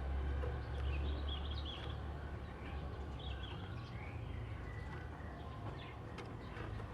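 Oriental magpie-robin singing short chirping phrases over a steady low rumble.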